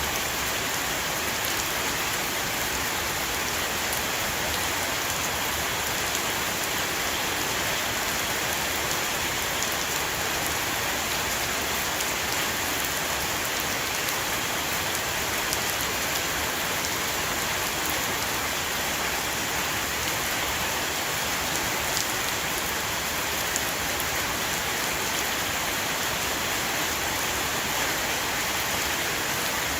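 Steady heavy rain shower falling on a roof, an even dense hiss with scattered individual drop ticks.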